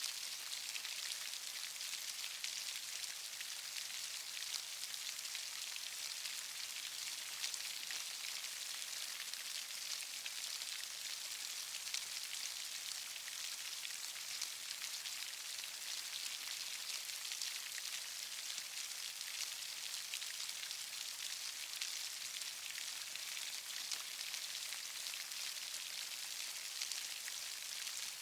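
Steady rain falling, an even hiss of many fine drops pattering on surfaces.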